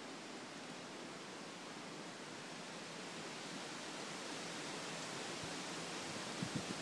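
Hurricane-force storm wind rushing steadily and slowly building, with gusts starting to buffet the microphone near the end.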